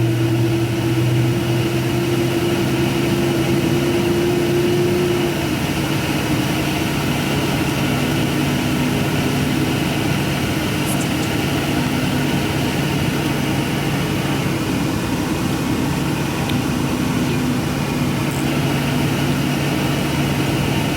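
Steady drone of an airliner heard from inside the cabin while it sits waiting before taxi. It is a low hum with a higher held tone that drops out about five seconds in.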